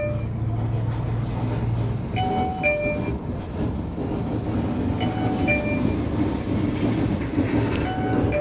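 Isuzu dump truck raising its bed: a two-note ding-dong warning chime repeats about every two and a half seconds over the running engine and hydraulic hoist, whose mechanical noise builds about halfway through.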